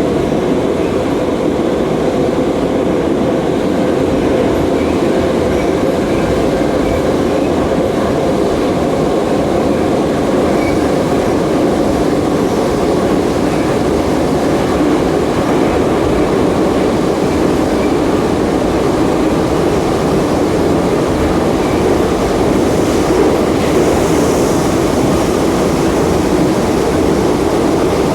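Inside a Soviet-era 81-717.5M 'Nomernoy' metro car running at speed through the tunnel: a steady, even rumble of wheels and running gear that does not change.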